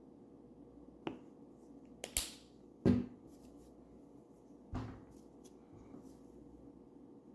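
Paintbrush working paint on a wooden bird house: a few short, light taps and knocks of brush and wood, the loudest about three seconds in, over a faint steady hum.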